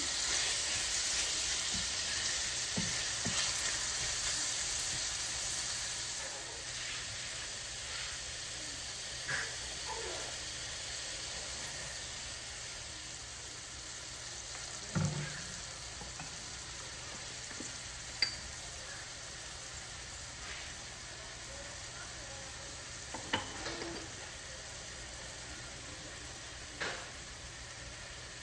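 Chicken pieces sizzling as they fry in a stainless-steel skillet, a steady hiss that slowly eases off. A cooking spoon stirs them, giving a few light knocks against the pan.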